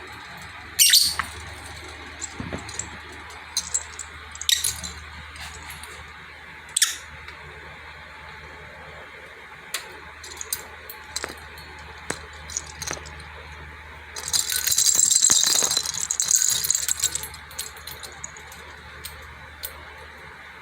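Lovebirds moving about their cage: scattered sharp clicks and rattles, with a dense high-pitched rattle lasting about three seconds near the end, over a low steady hum.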